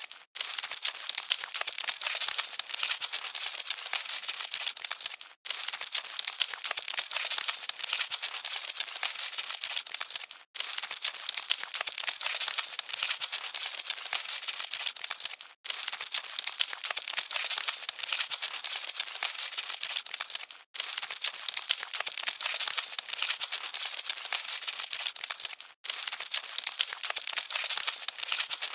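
Cockroaches scuttling: a dense, continuous dry crackling and rustling with no low end. It drops out for a split second about every five seconds as a short recording repeats.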